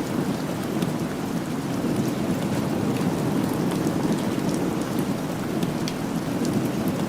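Steady rain falling, a continuous even hiss with scattered sharp ticks of drops.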